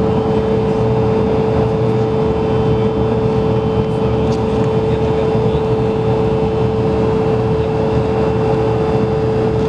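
Cabin noise inside an Embraer 170 jet airliner in flight: a steady rush of air with a constant hum held at one pitch.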